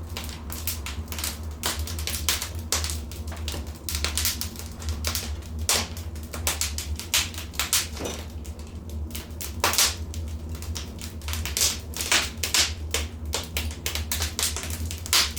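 Wood fire crackling in a fireplace: irregular sharp snaps and pops, several a second with a few louder ones, over a steady low rumble.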